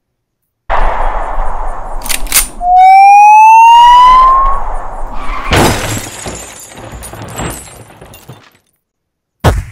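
Dubbed action sound effects: two quick gunshots over a hiss, then a police siren giving one loud rising whoop, then a vehicle crash with breaking and shattering debris trailing off, and a sharp knock near the end.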